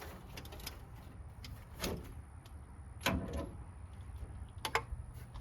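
A few sharp metallic knocks and clinks from hand tools working on spark plugs in an engine, strongest about two, three and nearly five seconds in, over a low steady hum.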